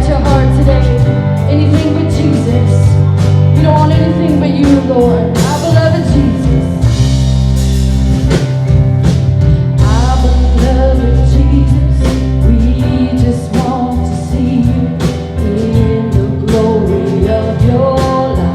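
Live church worship band playing a Christian rock song, with singing and regular drum hits over sustained guitar and bass.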